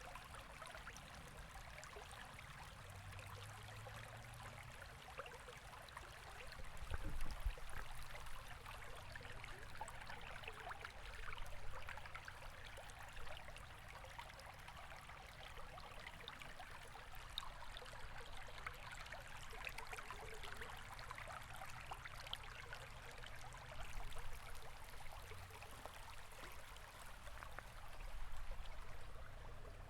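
River water flowing, a steady rushing trickle, with a few brief low rumbles, about a quarter of the way in and near the end.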